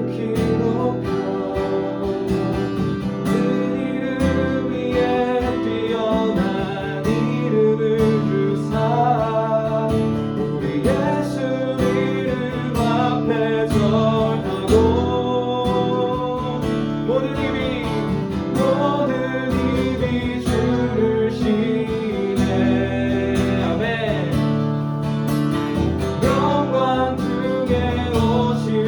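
Worship song: a strummed guitar with voices singing the melody.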